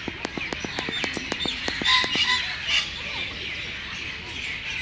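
A mixed chorus of birds chirping and calling, with the loudest calls about two seconds in. A quick series of sharp clicks runs through the first two seconds.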